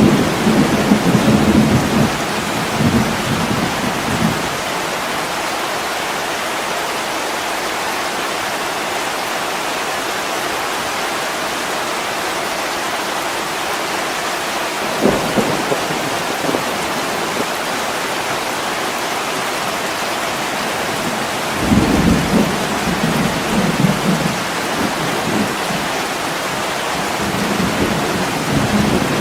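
Heavy rain falling steadily on a window, with low rolls of thunder at the start, a brief one about halfway through, and more in the last third.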